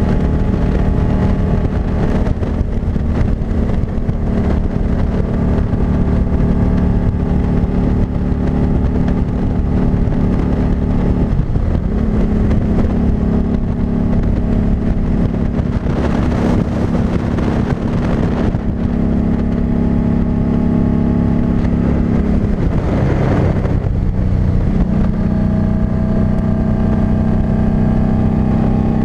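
Harley-Davidson Street 500's 494 cc V-twin engine running steadily while the bike is ridden at cruising speed. The engine note dips briefly twice, a little before halfway and about three-quarters of the way through, and there are two spells of rushing noise over it.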